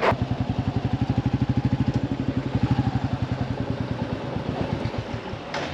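Royal Enfield motorcycle engine running at low revs, a steady rapid thudding of about thirteen beats a second that loosens and fades in the last second or so.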